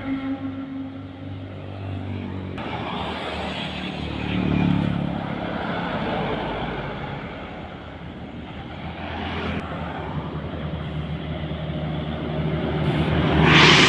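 Road traffic of trucks and other heavy vehicles driving past, engines droning steadily. One vehicle swells past about four seconds in, and the loudest pass comes at the very end.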